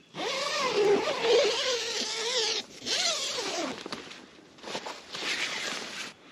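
Zipper pulled open in strokes, likely a tent door zipper: one long wavering pull of about two and a half seconds, a shorter pull about three seconds in, and another hissing pull near the end.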